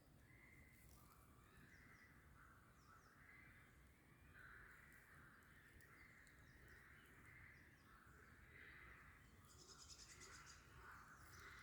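Faint woodland birds calling and singing over low background noise, with a quick high trill about ten seconds in.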